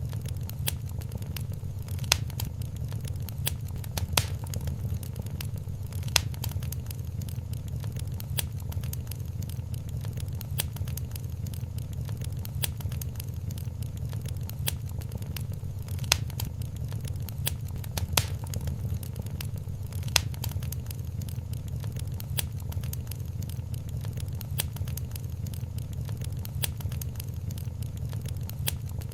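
Wood fire crackling in a fireplace: a dense stream of small snaps and pops, with a sharper pop about every two seconds, over a steady low rumble.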